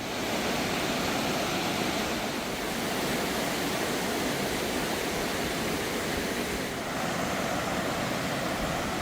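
Swollen river rushing steadily in flood.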